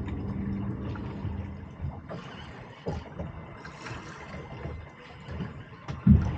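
Water lapping and gurgling against the hull of a small anchored fishing boat, with a low steady hum for the first two seconds and a loud thump near the end.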